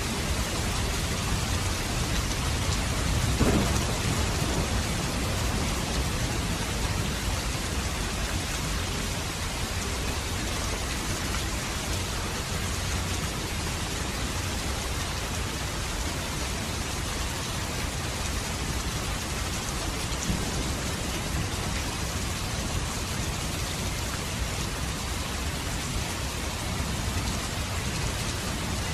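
Steady rain with thunder: a brief louder crack about three seconds in, and a low rumble building near the end.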